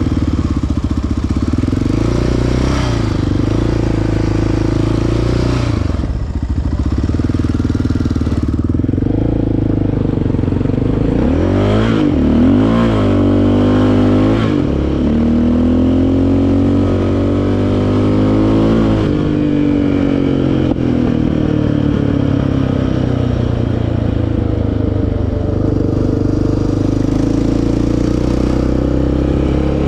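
Single-cylinder four-stroke ATV engine running under load, its revs rising and falling several times around the middle before it settles back to a steadier pull.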